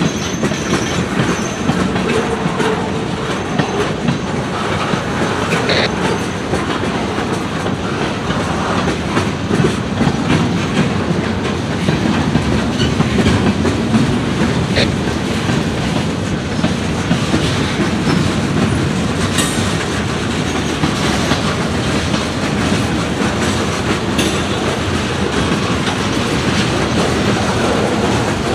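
Freight train cars rolling past steadily, their wheels clacking over the rail joints in a continuous run of clicks and rumble.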